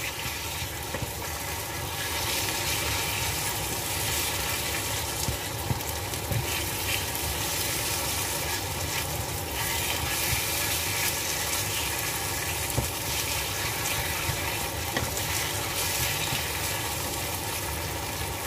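Food frying in a pan: a steady sizzle, with a few light clicks along the way.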